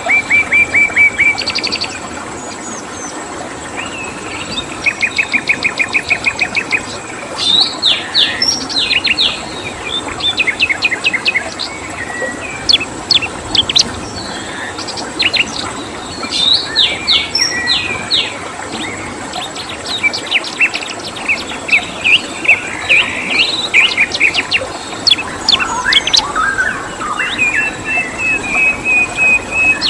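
Songbirds chirping and trilling in quick runs of rapidly repeated notes, some sliding up or down, over a steady background hiss.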